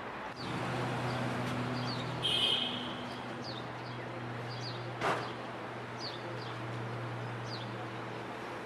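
Outdoor ambience of small birds chirping, short falling chirps every second or so, over a steady low hum and background noise. A brief louder burst comes about two seconds in, and a sharp click about five seconds in.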